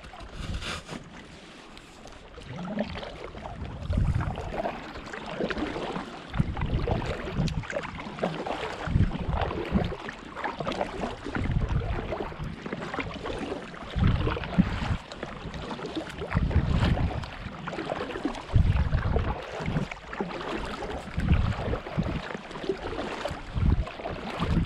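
Wind buffeting the microphone in irregular gusts over water noise from a small boat on a lake.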